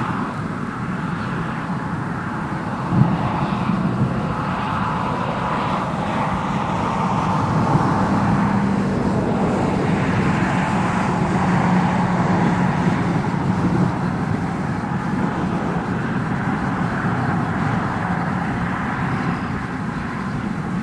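Constant, thunder-like roar of a distant hail shaft falling from the core of a supercell thunderstorm, a steady rumbling noise with no breaks. A brief thump about three seconds in.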